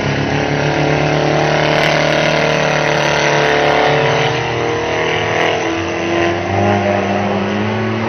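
Banger racing car engines running and revving, a steady drone whose pitch drifts slowly up and down as cars go round the track.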